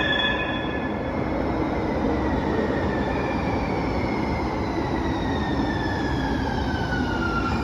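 Muni Metro light rail train in an underground station: a steady rumble, with an electric motor whine that falls steadily in pitch over the second half as the train slows.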